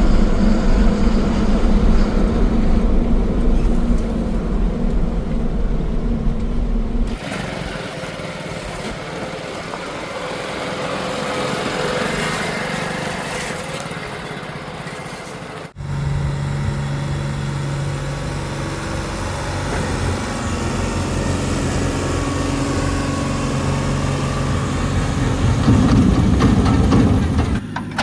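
Heavy diesel engines running, with the sound changing abruptly about seven seconds in and again about halfway through; the engine noise grows louder shortly before the end.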